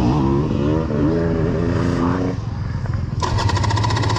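300 two-stroke dirt bike being started with a suspected fouled spark plug. The engine runs unevenly for about two seconds and then drops away. Near the end a fast, steady mechanical chatter starts up.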